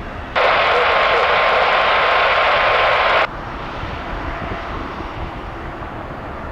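A loud burst of radio static, an open transmission with hiss and a steady tone, starts abruptly about half a second in and cuts off sharply after about three seconds. Under it, the low rumble of a jet airliner's engines runs on throughout.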